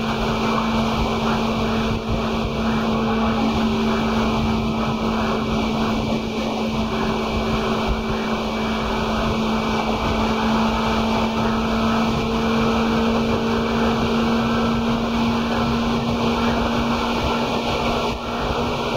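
Seibu 2000 series electric commuter train running, heard from inside the car: a loud, steady rumble of wheels and running gear with a hum held at one pitch.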